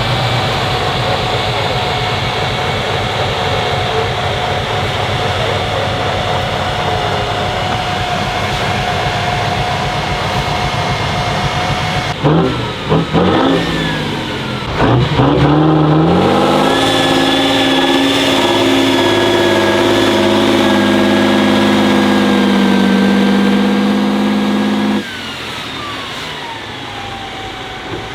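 Heavy off-road trial truck's engine working hard. About halfway through, the revs go up and down unsteadily, then climb and hold high for several seconds before dropping off suddenly, and the pitch falls away near the end.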